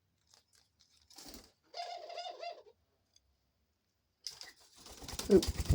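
Pet dove cooing, a short pulsing call about two seconds in, after a few faint clicks. A loud burst of rustling comes near the end.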